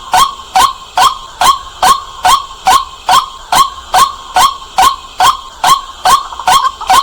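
White-breasted waterhen calling: a loud, clear note repeated in a steady series, about two calls a second.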